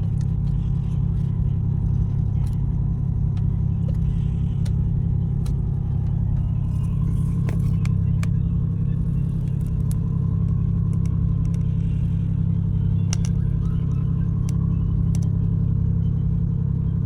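Tugboat's diesel engines running with a steady low drone, with a few faint clicks over it.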